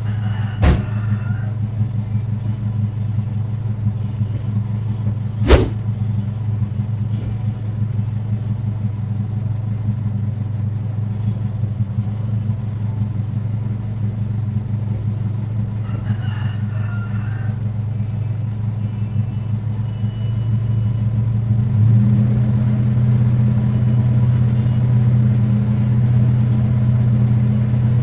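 Toyota Kijang Super's engine idling steadily. Two sharp clicks come through, one just under a second in and a louder one about five and a half seconds in. The idle grows a little louder about three-quarters of the way through.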